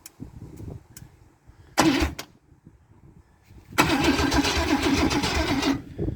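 An engine cranked on the starter, coughing into life in a short loud burst about two seconds in, then firing for about two seconds before it dies. The exhaust is open, straight out the extractors with no muffler, so the firing is loud and raw.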